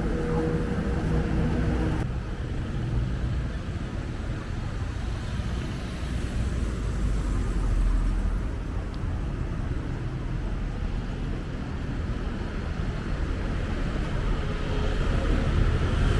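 Road traffic: motor vehicles running and passing in a steady low rumble. An engine hum at the start stops about two seconds in.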